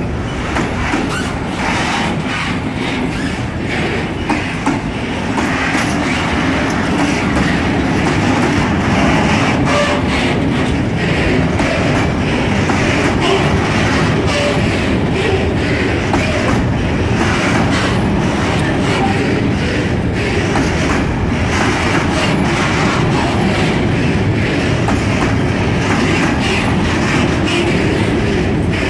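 Freight train of covered sliding-wall wagons rolling slowly past close by: a steady rumble of wheels on rail, with irregular clicks and knocks from the wheels and couplings.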